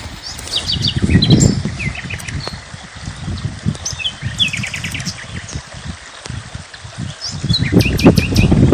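Small birds chirping and trilling in quick short phrases, over a louder irregular low rumble that swells about a second in and again near the end.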